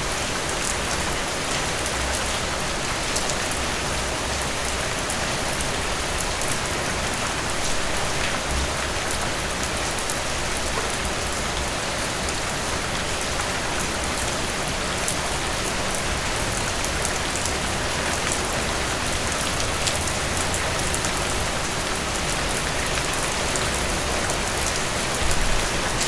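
Steady rain falling, an even hiss with many fine drop ticks over a low rumble.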